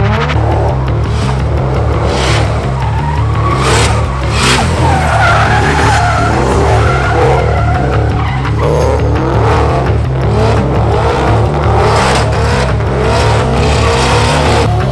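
Drift cars with engines revving hard, pitch sweeping up and down, and tyres squealing and skidding, over a steady bass beat of music.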